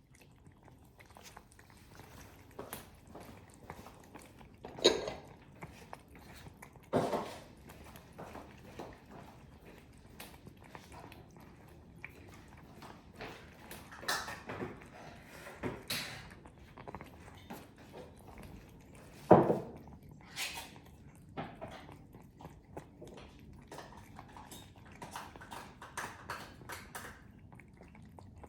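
A cat chewing and eating: irregular small crunches and clicks, with a few louder ones now and then.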